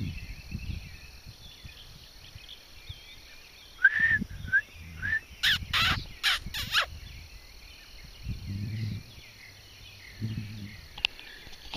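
Birds calling: a few short chirps about four seconds in, then a quick run of four loud, harsh calls, over a steady high trill of insects.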